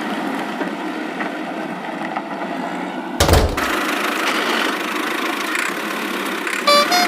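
Cartoon sound effect of a vehicle engine running steadily, with one sharp thump about three seconds in and a horn tooting in short two-pitch beeps near the end.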